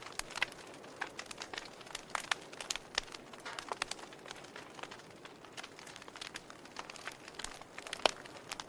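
Wood fire crackling in a fireplace: irregular sharp pops and snaps over a soft hiss, with a louder pop near the end.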